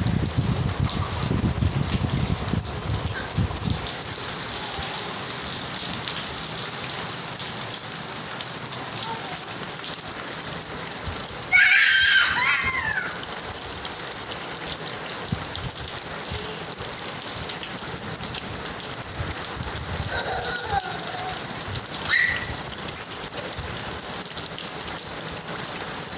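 Steady rain falling and pattering on a surface. About halfway through, a short high-pitched voice cuts in over it, with a smaller one near the end.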